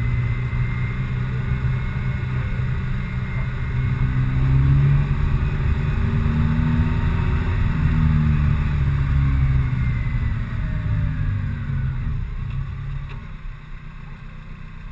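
Honda Civic Type R FN2's four-cylinder engine running at low revs as the car drives slowly, its pitch rising and falling with the throttle. It drops away noticeably about three-quarters of the way through as the car eases off.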